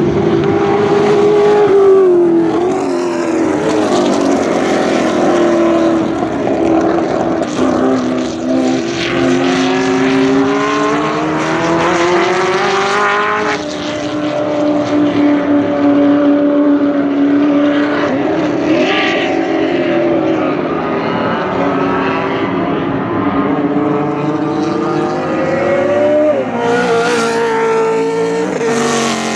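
Racing car engines at high revs, pitch climbing through each gear and dropping on the shifts and under braking, with cars passing close by at a couple of points.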